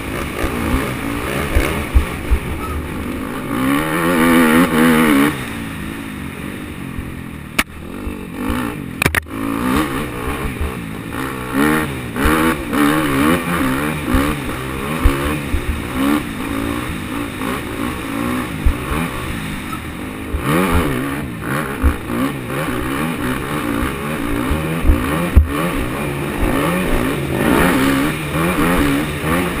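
Dirt bike engine heard from on the bike as it rides a trail, revving up and down repeatedly with the throttle, with a strong rev-up a few seconds in. A couple of sharp knocks come about a third of the way through.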